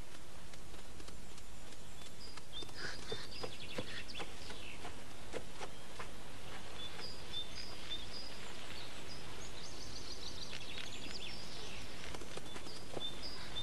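Steady background hiss with small birds chirping: short, repeated high notes and quick trills, starting about two and a half seconds in and coming in clusters.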